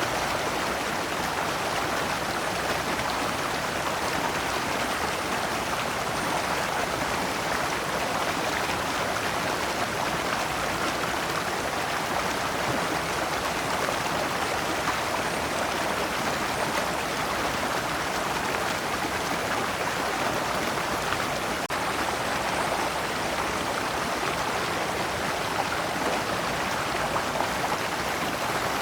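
Shallow rocky stream flowing steadily over large stones, water running through small cascades in an even, unbroken rush.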